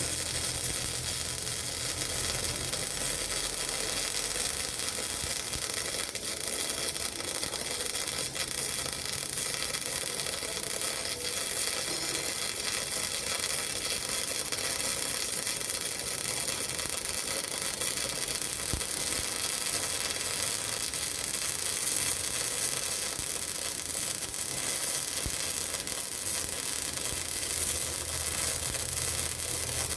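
MIG welding arc on steel pipe, giving a steady sizzling hiss.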